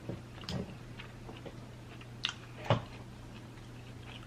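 Close-up chewing and mouth sounds of a person eating a cheesesteak sandwich, with a few short wet smacks, the loudest near the middle.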